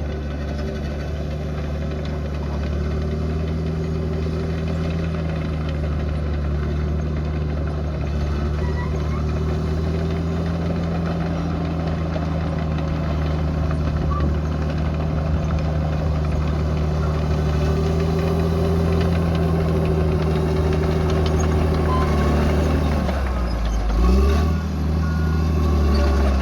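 Bulldozer's diesel engine running steadily under work; near the end its pitch drops briefly and comes back up.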